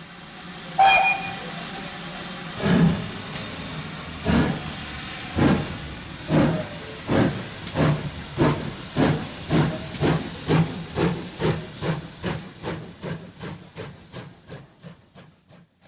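Steam locomotive pulling away: a hiss of steam and a short whistle, then exhaust chuffs that start slow and come faster and faster as the sound fades.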